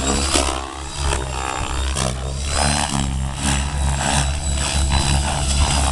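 KDS Innova 700 V2 electric RC helicopter in flight, its main rotor beating steadily while the whine of its Scorpion brushless motor glides up and down in pitch as it manoeuvres.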